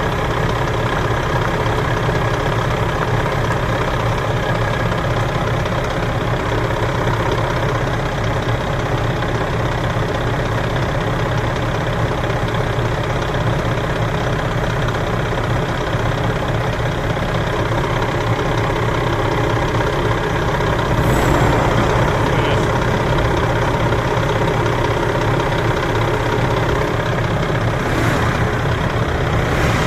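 Heavy truck's diesel engine idling steadily, with a brief sharp hiss twice in the last third.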